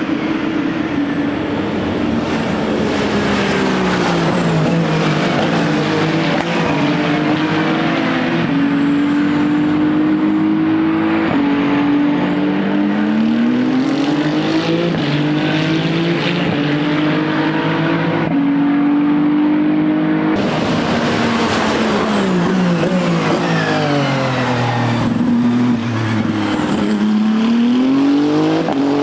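Ferrari 499P hypercar's twin-turbo V6 hybrid powertrain at racing speed. The engine note climbs and steps through upshifts, slides down under braking and downshifts in the middle and again near the end, then rises as it accelerates away.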